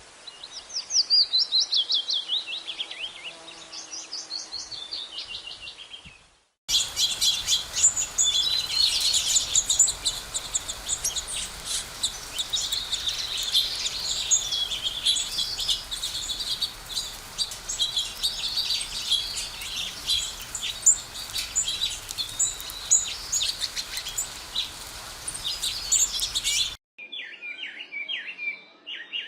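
Sparrows chirping in three abruptly cut segments. First come rapid runs of chirps falling in pitch, then about twenty seconds of dense, overlapping chirping from many birds, then after a brief break a short run of lower chirps.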